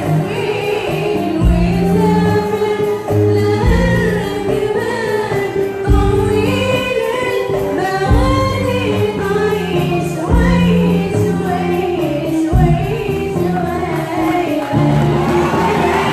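A choir singing a song with instrumental accompaniment, held sung notes over a bass line.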